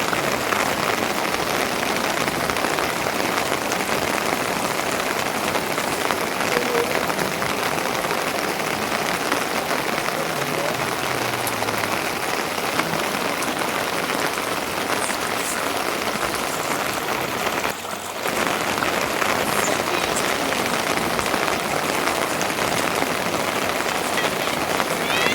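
Steady rain falling, an even hiss, with a brief drop-out about eighteen seconds in.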